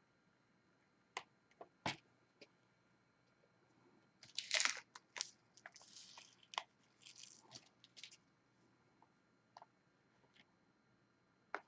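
Diamond painting work: scattered small clicks and taps of a drill pen picking up resin drills and pressing them onto the sticky canvas, with a busier stretch of crackly rattling from about four to eight and a half seconds in.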